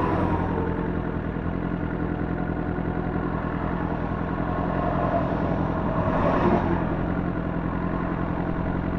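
Kawasaki sport motorcycle's engine running steadily while riding on a motorway, heard from the bike with road and wind noise. About six seconds in, the sound swells briefly and grows louder.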